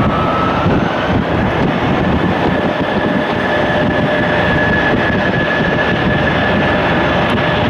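Jet airliner engines running steadily, with a high whine that rises slightly about a second in and then holds over a loud even rush.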